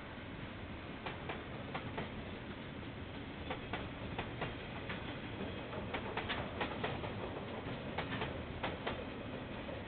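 KiwiRail train passing at night, its wheels clicking over the rail joints, often in quick pairs, over a steady rumble. The clicks come faster and louder from about a third of the way in.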